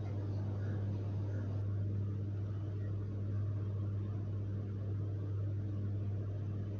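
A steady low hum with a faint hiss under it, unchanging throughout, with no animal call.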